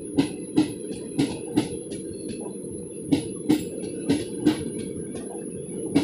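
Passenger train coaches rolling past, their wheels clacking over rail joints in pairs about once a second over a steady low rumble.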